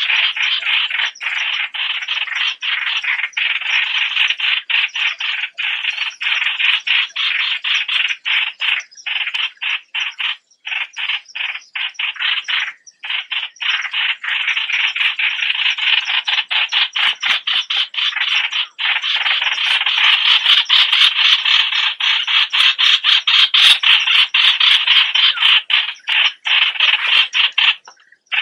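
Birds giving a continuous, dense stream of rapid chattering calls, the Thai 'nok plot suan' bird named in the title, with a few short breaks between about nine and thirteen seconds in. The calls are a little louder in the last third.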